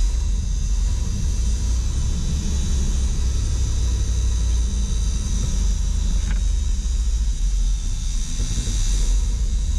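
Ford F700 truck's 370 V8 gasoline engine idling cold on part choke with a steady low rumble, running unhappily as it warms up after being restarted.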